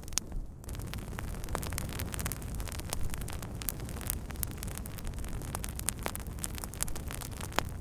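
Wood fire crackling: a steady low rushing sound dotted with many sharp pops and snaps from the burning wood.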